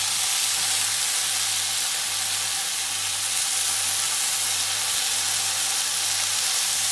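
Skewered chicken tikka pieces sizzling steadily on a hot flat tawa, with a low steady hum underneath.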